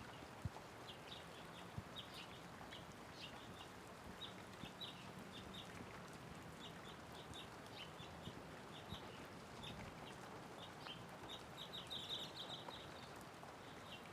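Light rain falling as a steady hiss, with small birds chirping in short high calls throughout and a quick run of chirps near the end.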